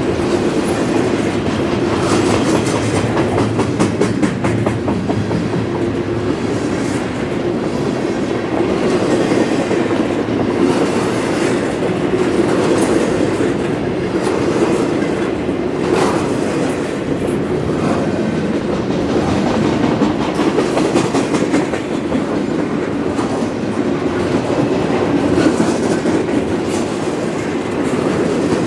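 Doublestack container train's well cars rolling steadily past, a continuous rumble with wheels clicking over the rail joints and one sharper metallic click about halfway through.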